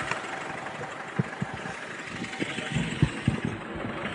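Vehicle engine idling steadily, with a few short low thumps about a second in and a closer cluster of them near three seconds.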